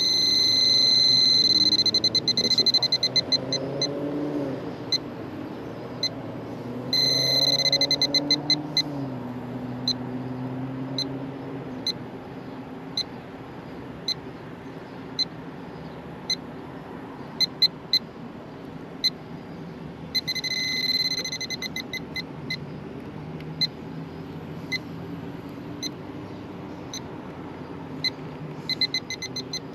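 Electronic refrigerant leak detector ticking at an uneven pace and breaking into a run of fast, high-pitched beeping three times: at the start, about seven seconds in and about twenty seconds in. The beeping means it is picking up R22 refrigerant leaking from the evaporator coil. A low machine hum runs underneath, wavering in pitch during the first third.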